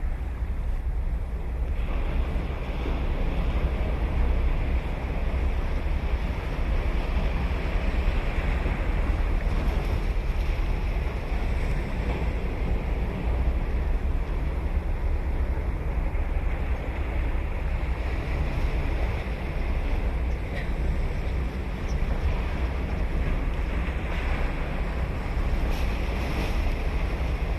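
Ocean surf breaking and washing steadily on the beach, with a heavy low rumble of wind buffeting the microphone.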